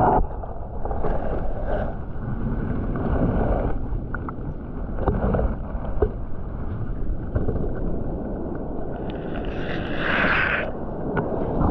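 Waves surging over a shallow reef, heard through an underwater camera as a muffled, uneven rushing of water with a few faint clicks. A brighter hiss swells about ten seconds in.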